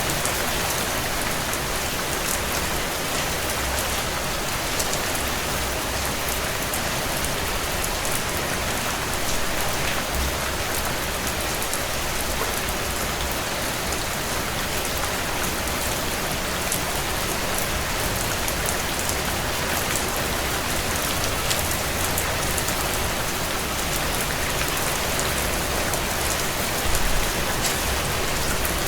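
Steady heavy rain on window glass, an even hiss peppered with small scattered ticks and crackles, with a brief low rumble near the end.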